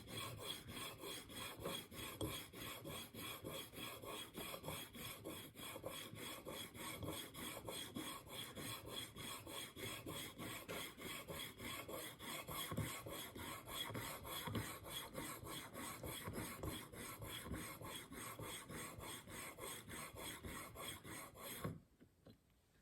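A diamond sharpening plate, 600 grit, stroked rapidly back and forth along the steel edge of a single-bevel broadhead clamped in a KME jig, making a steady, even rasping rub. This is the finer-grit honing stage after the angle was set on 220. The strokes stop abruptly near the end.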